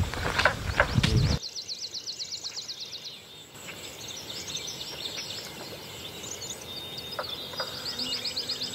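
Wind rumbling on the microphone with a few knocks for about the first second. After a sudden drop, quiet rural outdoor ambience follows, with a bird singing a rapid, high trill in two runs, one early and one near the end.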